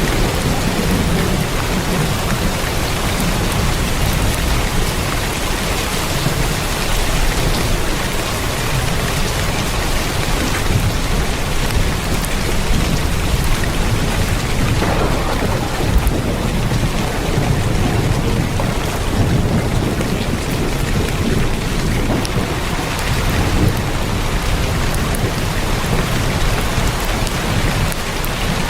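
Heavy rain drumming steadily on a tin roof, with a deep, wavering rumble underneath.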